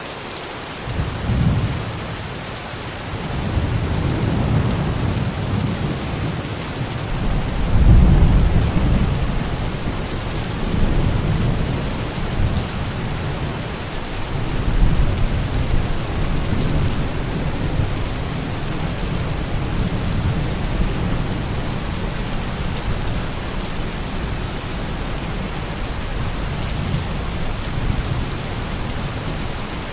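Steady heavy rain with rolls of thunder, the loudest rumble about eight seconds in and weaker ones after.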